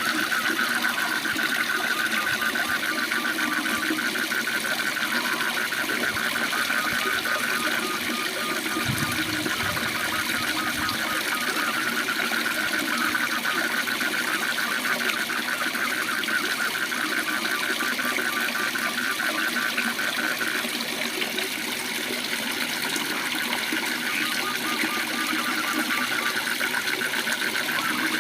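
Waterfall rushing steadily, under a fast, continuous pulsing trill of calling frogs.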